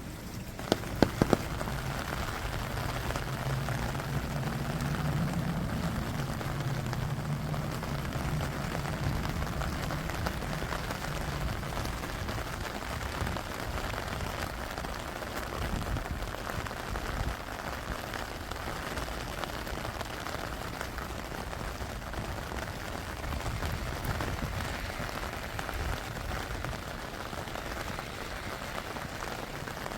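Steady rain falling, an even hiss of drops, with a few sharp clicks about a second in and a low hum underneath during roughly the first ten seconds.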